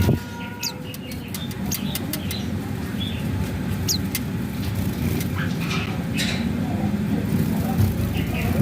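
Pleci (white-eyes) in an aviary giving short, high, thin chirps and ticks, scattered irregularly, over a steady low background rumble.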